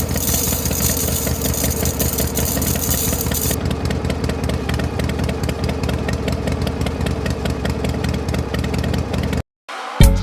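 A motor running steadily with a rapid, even chugging pulse, like a small engine at idle. It cuts off abruptly near the end, and music begins right after.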